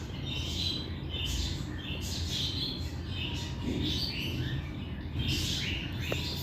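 Budgerigar chirping and chattering in short, high calls, about two a second, over a steady low background rumble.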